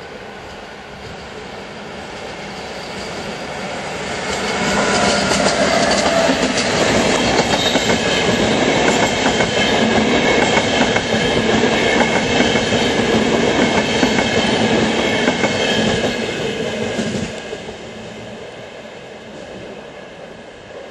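A VR Sr2 electric locomotive and its InterCity double-deck coaches run past close by as the train pulls into the station to stop. The wheels rumble and click over the rail joints, with several steady high squealing tones above them. The sound builds for about five seconds, stays loud, then falls away about seventeen seconds in.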